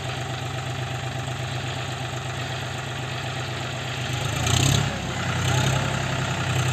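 John Deere 5045D tractor's three-cylinder diesel engine running steadily at low speed with an even pulse. About four seconds in there is a brief rush of noise, and the engine then runs louder.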